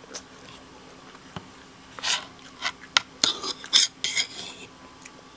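Metal fork scraping and clicking on a wooden plate, a cluster of short scrapes and a few sharp taps starting about two seconds in and lasting a couple of seconds, as the last of the noodles are gathered up.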